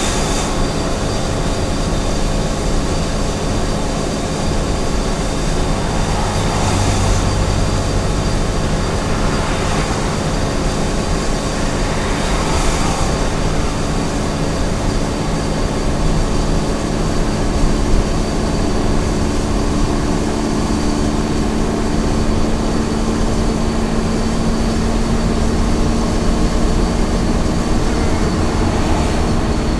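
Small truck driving at highway speed: a steady engine hum over low rumble and road and wind noise, with a few brief swells of rushing noise.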